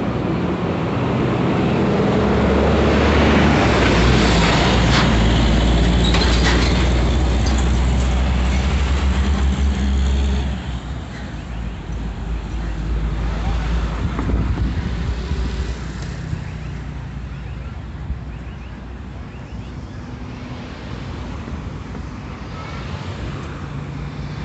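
Bell UH-1 Huey helicopter flying past, a loud low rumble for the first several seconds that drops off suddenly about ten seconds in and fades to a quieter distant rumble.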